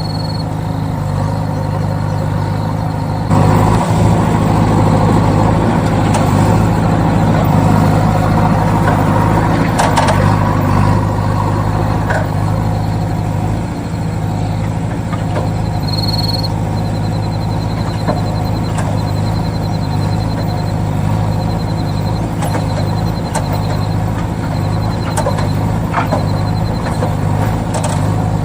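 Small motor of a DIY miniature tractor-style machine running steadily with a constant hum. It grows louder and rougher about three seconds in, with a few faint clicks.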